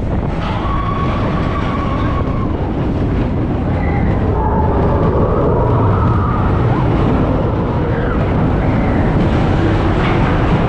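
Expedition Everest roller coaster train rumbling along its track, heard from the front car: a loud, steady low rumble with a few faint drawn-out high tones drifting over it.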